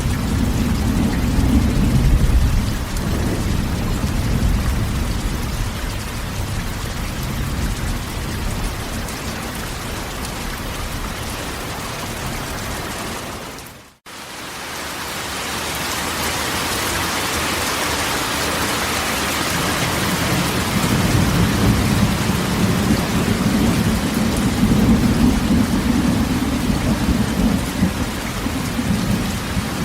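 Heavy rain drumming on a corrugated metal roof, with low rolling thunder rumbling near the start and again in the second half. About halfway through the sound drops out abruptly and fades back in.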